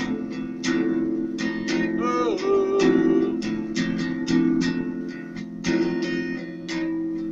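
Acoustic guitar strumming chords in a steady rhythm, with a short wordless sung note that bends in pitch about two seconds in.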